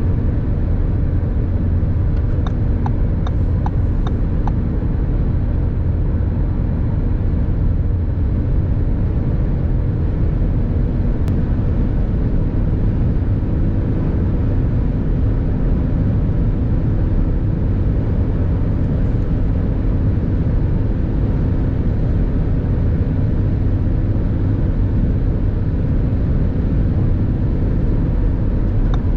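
2024 Audi S3 Sportback's 2.0-litre turbocharged four-cylinder with Akrapovic exhaust, driving at a steady speed under tyre and wind noise. The sound holds constant, with no change in engine pitch.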